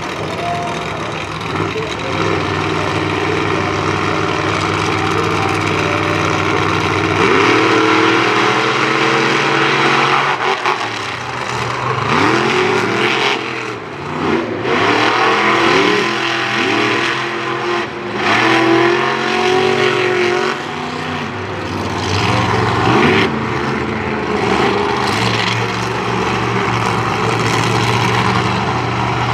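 Monster truck engines running hard during a race: a steady high-revving drone at first, then about halfway through repeated quick rises and falls in pitch as the throttle is blipped and released.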